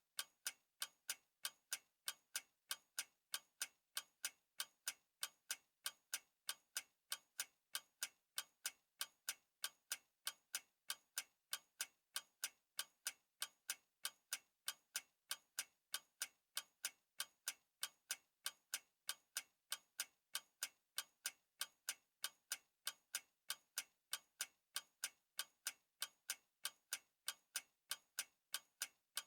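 Clock ticking steadily, with even, sharp ticks at about three a second.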